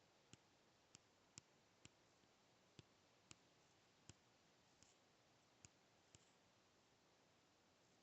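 Near silence broken by faint, sharp clicks at irregular intervals, about ten in the first six seconds, then none.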